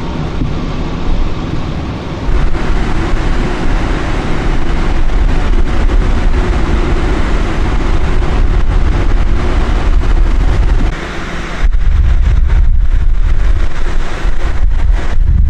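Loud, steady outdoor noise of passing freeway traffic, with wind rumbling on the microphone; the rumble drops briefly about eleven seconds in, then comes back heavier.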